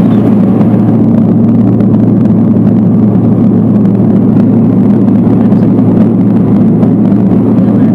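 Twin turboprop engines and propellers of a Buddha Air Beechcraft 1900D droning steadily, heard loud inside the passenger cabin.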